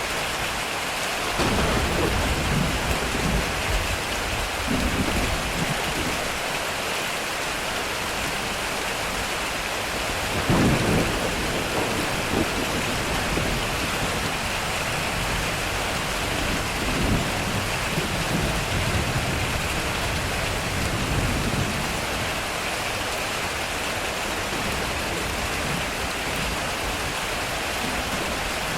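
Heavy rain falling steadily on a metal roof, with thunder rolling several times. The loudest peal comes about ten seconds in.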